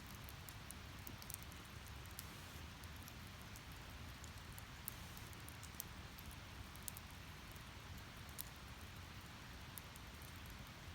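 Split firewood burning in a fire pit, crackling with irregular sharp pops over a faint steady hiss.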